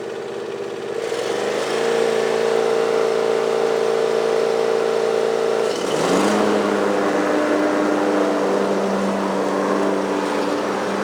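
John Deere lawn mower engine running steadily. Its pitch rises as the throttle opens about a second in, then dips and settles lower about six seconds in.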